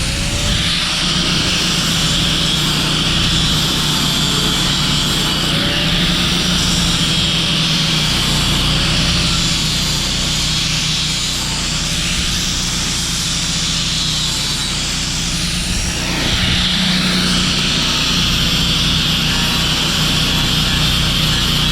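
Stick welding: the steady frying crackle of the arc over the low drone of an engine-driven welder, with a brief break in the sound about 16 seconds in.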